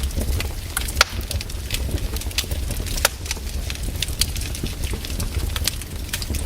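Wood fire in a fireplace crackling: a dense, irregular run of sharp pops and snaps, two louder ones about a second and three seconds in, over a steady low rumble of the flames.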